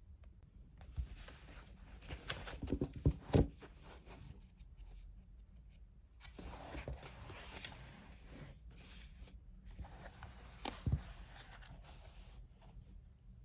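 Things being handled in a small room: rustling, with a few light knocks about two to three seconds in and another one near the end.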